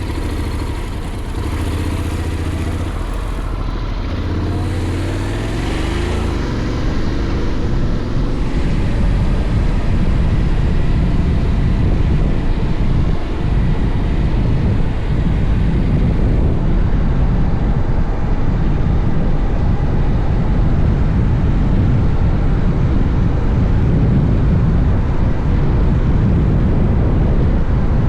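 Honda X-ADV's 745 cc parallel-twin engine accelerating, its pitch climbing in a few steps over the first several seconds. Then heavy low wind rumble on the camera microphone at riding speed covers the engine.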